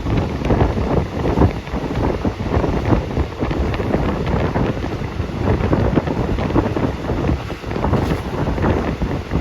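Wind buffeting the phone's microphone: a loud, gusting rush that rises and falls unevenly.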